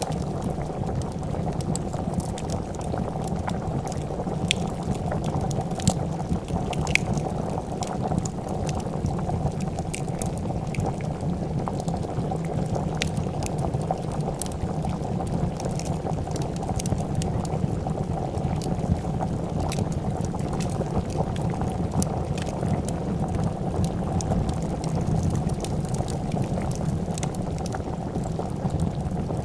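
A pot of soup bubbling at a steady boil, with frequent short crackles and pops from a wood fire.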